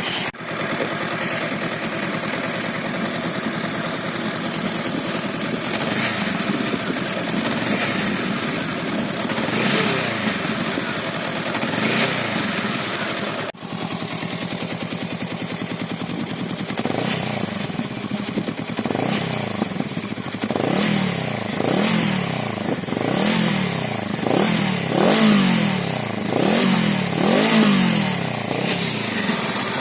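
Honda Rebel CMX 500's parallel-twin engine idling with a few light blips of the throttle. After a short break, it is revved over and over, each rev rising and falling about once a second, the strongest near the end.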